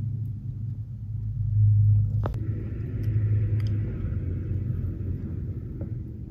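Low engine and exhaust rumble of a motor vehicle, swelling about two seconds in and then slowly fading.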